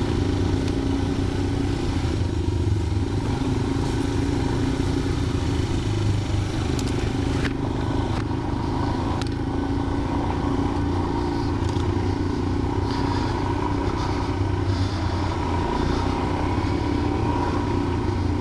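Motorcycle engine running with a steady note while riding an off-road track, with a couple of sharp knocks about seven and nine seconds in.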